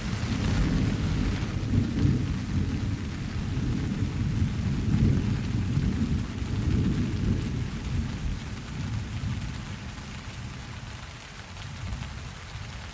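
Rain falling steadily with a long roll of thunder: a low rumble that swells within the first second, holds for several seconds and dies away over the second half.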